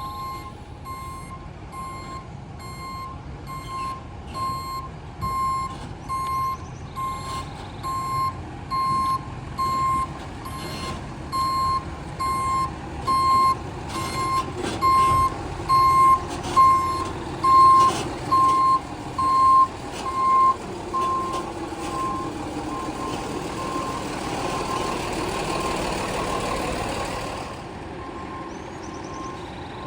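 Garbage truck's reversing alarm beeping about once a second, getting louder then stopping about two-thirds of the way through, over the diesel engine running. A loud rushing hiss follows and cuts off sharply near the end.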